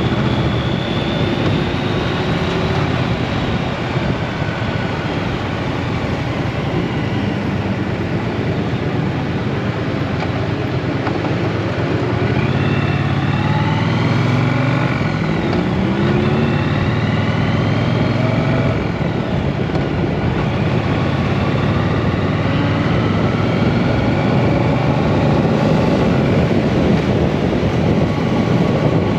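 Triumph Bonneville T120's 1200 cc parallel-twin engine running under way. About halfway through, its pitch climbs several times in a row as it accelerates through the gears.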